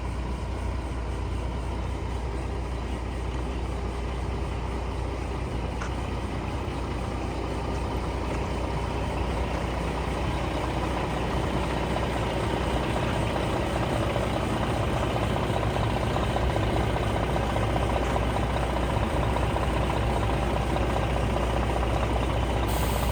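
Scania R480 dump truck's inline-six diesel engine idling steadily.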